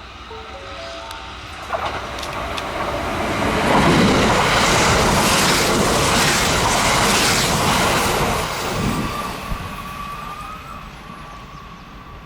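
Kintetsu electric train passing at speed on open track: a rushing wheel and rail noise that swells over a few seconds, holds loud for about four seconds, then fades away.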